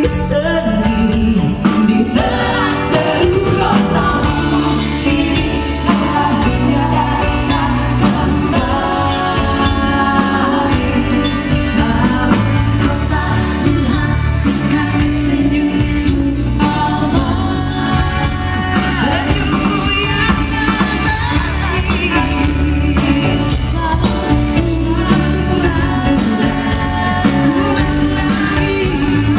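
A live band playing a pop song, with a singer's voice over guitar, bass and drums.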